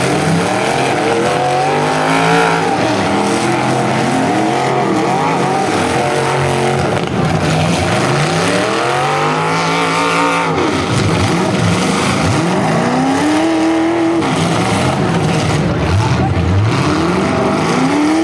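Several full-size demolition derby cars with their engines revving hard, each pitch rising and falling again and again as the cars accelerate and back off, the engines overlapping.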